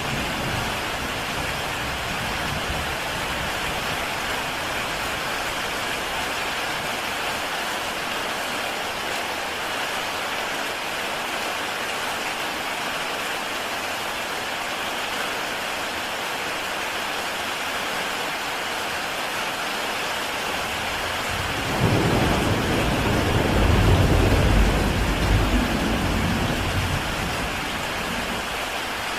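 Heavy rain falling on a tile roof, a steady dense hiss. About three quarters of the way through, a rumble of thunder comes in suddenly, swells for a few seconds and fades away.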